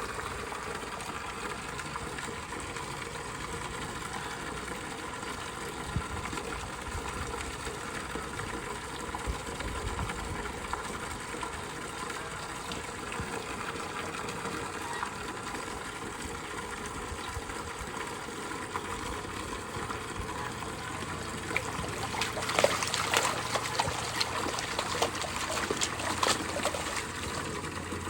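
Running water, a steady rush with no pauses. A run of louder, irregular sharp clicks comes near the end.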